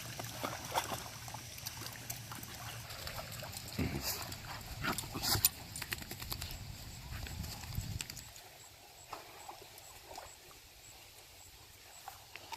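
Puppies scuffling and making small dog noises, with many short clicks and scrapes, over a low steady hum that stops about eight seconds in.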